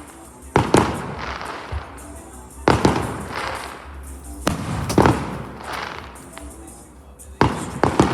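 Fireworks display: sharp bangs, mostly in quick pairs about every two seconds, each followed by a fading crackle. Music plays faintly underneath.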